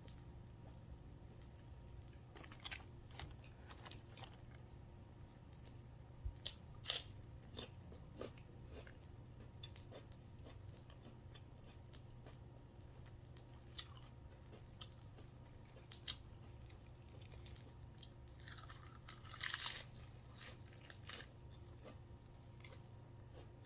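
A person chewing and crunching food, close up, with scattered crisp bites and a denser run of crunching about nineteen seconds in, over a faint steady hum.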